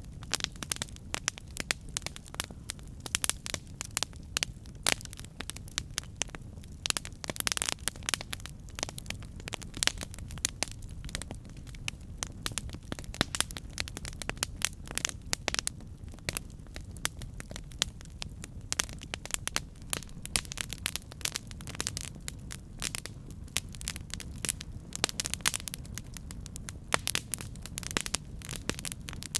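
Campfire burning, wood crackling and popping in a dense run of sharp snaps over a steady low rumble of the flames.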